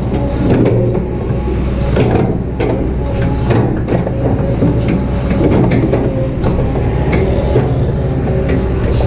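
Kobelco SK200-8 hydraulic excavator's diesel engine running steadily under working load, with irregular knocks and clatter from the bucket and arm as it shapes the slope.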